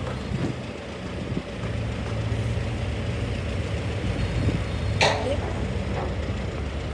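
Heavy diesel engine running steadily with a low rumble. A single sharp clank or hiss comes about five seconds in.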